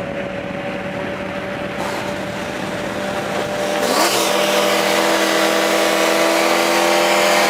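Car engine running, heard from inside the cabin, holding steady and then rising in pitch and getting louder about four seconds in.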